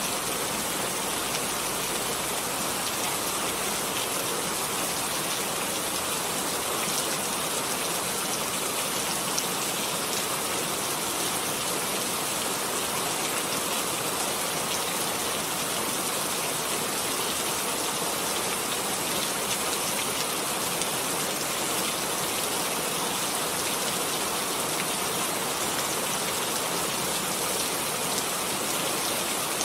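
Steady rain falling, an even hiss of many drops with fine scattered patter.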